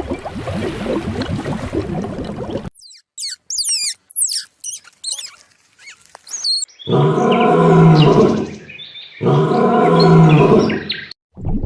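Animal sounds in succession: a rough low noise at first, then several seconds of high, quick bird chirps, then two long, deep animal calls, each about a second and a half, with a short pause between them.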